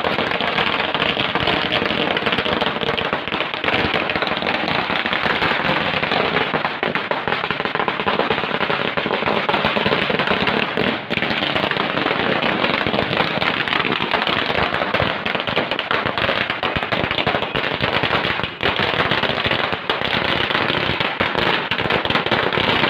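Firecrackers going off in a rapid, unbroken run of cracks, set off in a victory celebration.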